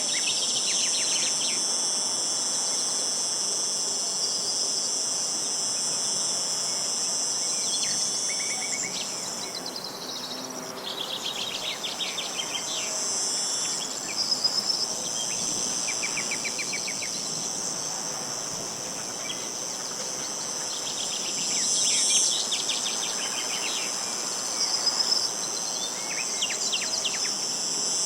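A steady, high-pitched chorus of insects droning throughout, thinning briefly near the middle, with a songbird singing short phrases of fast repeated notes several times over it.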